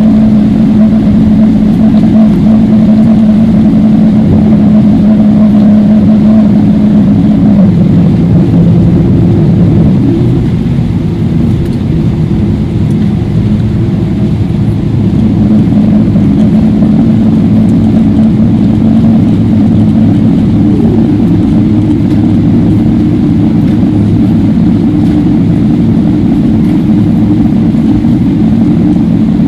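Steady, loud cabin drone inside a Boeing 777-300ER in flight, from its GE90 jet engines and the airflow over the fuselage. A low hum in the drone dips in pitch about eight seconds in and comes back up about halfway through.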